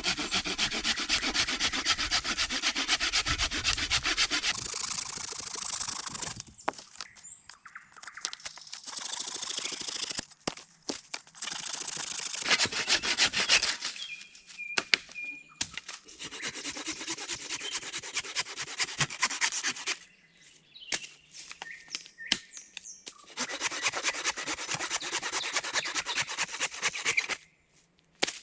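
Hand saw cutting through wood in several bouts of quick back-and-forth strokes, each lasting a few seconds, with short pauses between them.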